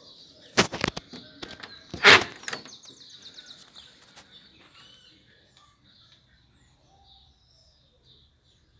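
Birds chirping, with a quick cluster of sharp knocks just under a second in and a louder clatter about two seconds in.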